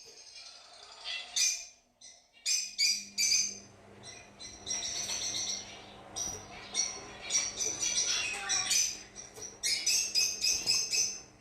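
Fischer's lovebirds chirping: many short, high-pitched calls in quick succession, overlapping almost without pause. A faint steady low hum comes in about two and a half seconds in.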